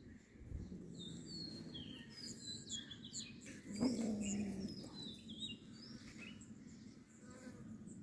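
Small birds chirping in quick, high, rising and falling calls, with a short low growl about four seconds in, the loudest sound.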